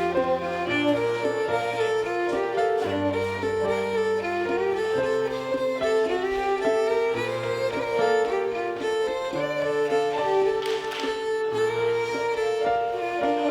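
Live contra dance band music: a fiddle carries a quick jig or reel melody over long held bass notes that change every couple of seconds.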